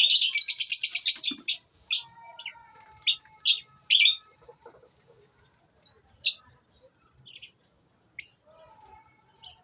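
Lovebirds chirping: a dense rapid burst of shrill chirps in the first second, then single sharp calls about twice a second, thinning to a few faint calls after about four seconds.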